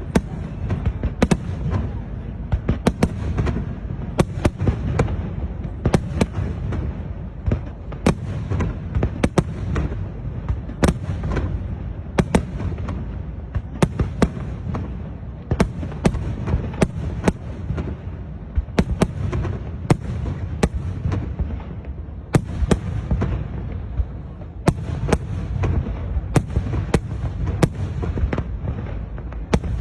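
New Year fireworks display: a rapid, irregular string of sharp aerial shell bursts, often several a second, over a steady low rumble of booming and crowd-scale outdoor noise.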